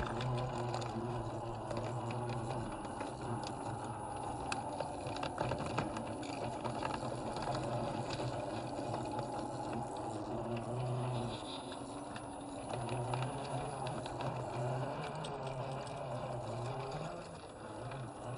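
1/10-scale RC crawler driving over dirt: the electric motor and geared drivetrain give a steady low whine, with tyres crunching and grit ticking underneath. The motor eases off briefly twice, about two-thirds through and near the end.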